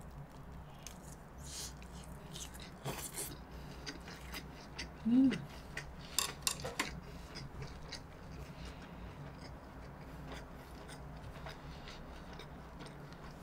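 Close-miked chewing of a big mouthful of sushi: wet mouth clicks and smacks scattered throughout. A short hummed "mm" about five seconds in is the loudest sound, followed by a quick run of clicks.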